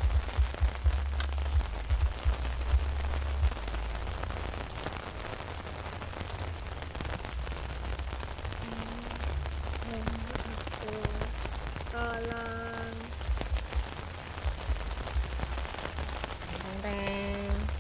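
Steady rain falling on a tent. A voice makes a few short sounds about halfway through, and again near the end.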